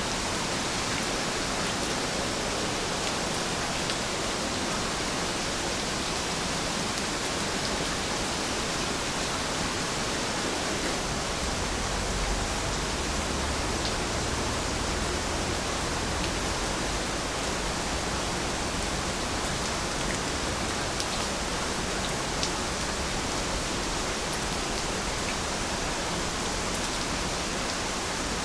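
Heavy rain falling steadily: a dense, even hiss with faint scattered drop ticks. A low rumble comes up for a few seconds near the middle.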